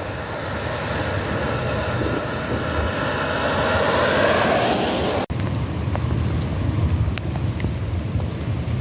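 Tyres hissing on a wet road as a vehicle passes, swelling for about five seconds, then an abrupt cut to steady light rain with wind rumbling on the microphone and scattered raindrop ticks.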